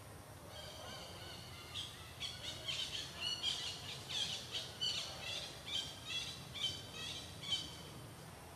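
A bird calling in a steady run of short, high chirps, about two a second, starting faintly and growing clearer, then stopping about a second before the end.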